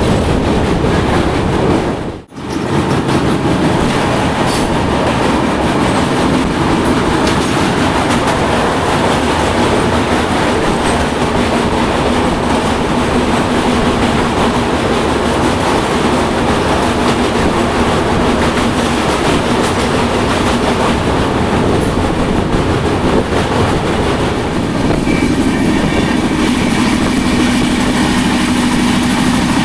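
Express passenger train running at speed, with a steady rumble of wheels on rail and clickety-clack, as it crosses a river bridge. There is a brief dropout about two seconds in, and a steadier hum comes in near the end.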